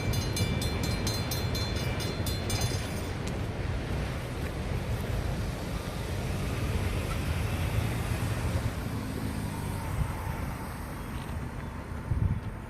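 Safetran hybrid crossing bell ringing in quick even strokes, then stopping about three seconds in as the crossing deactivates after the train clears. A low rumble of the train goes on underneath.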